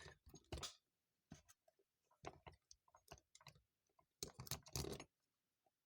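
Faint, scattered clicks and taps of small metal carburetor parts and a screw being handled and driven in, with a closer cluster of taps about four to five seconds in.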